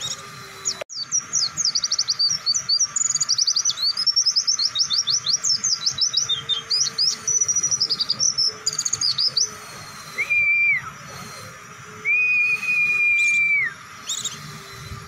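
White-eye (pleci) song: a long, fast run of high chirping notes starting about a second in and lasting some eight seconds, then two flat, even whistled notes, the second one longer.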